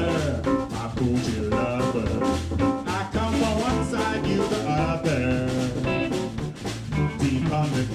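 Live electric blues band playing: drums and bass underneath, with guitar and keyboard lines bending over the top.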